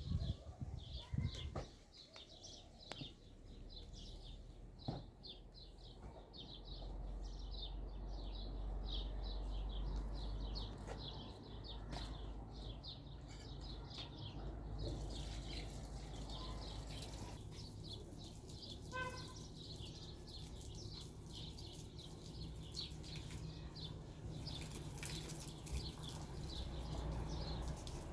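Small birds chirping over and over in quick short notes, over a steady low rumble. A brief pitched animal call cuts in about two-thirds of the way through.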